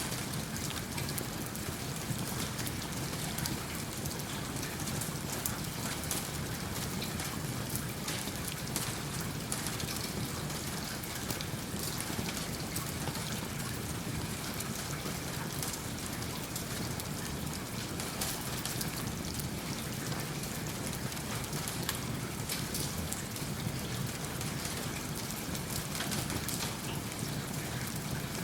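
Steady rain falling, with a crackling fireplace fire mixed in.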